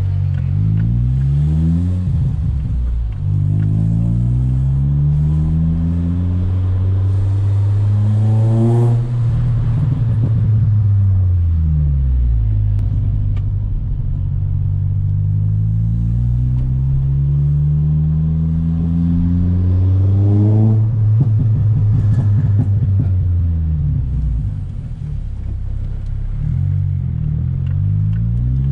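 Ford Fiesta ST Mk6's 2.0-litre four-cylinder engine through a newly fitted exhaust, heard from the cabin with the windows down, accelerating through the gears. The engine note climbs in long pulls, drops back about nine seconds in and again about twenty-one seconds in, and starts climbing once more near the end.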